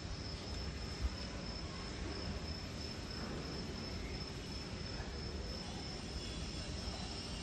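Station platform ambience: a steady, thin, high-pitched insect trill, like a cricket, over a low background rumble, with a single short click about a second in.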